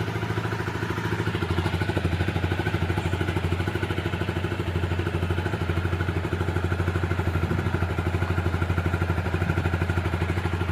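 Liquid-cooled motorcycle engine idling steadily with an even, rapid pulse, left running to warm through after standing unused for about a month and a half.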